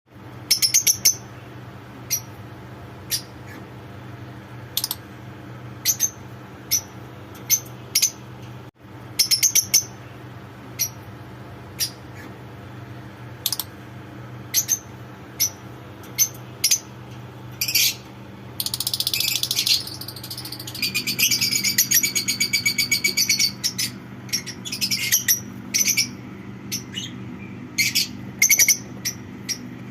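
Lovebird chicks chirping in short high calls, with a stretch of rapid pulsed calls about two-thirds of the way through.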